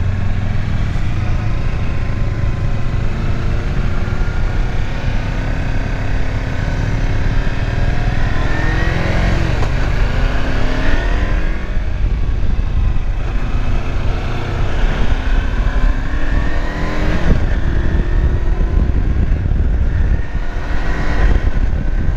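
Kawasaki Versys X 300's parallel-twin engine running on the move, its pitch climbing several times as the bike accelerates through the gears, over a steady low rumble of wind and road.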